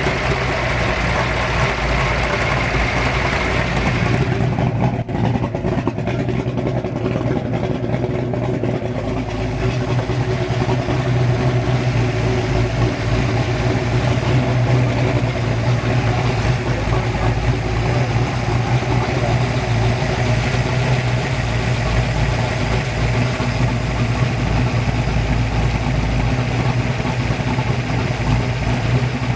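Kiekhaefer 482 cubic-inch marine V8 in a race boat idling steadily while its ignition timing is being set.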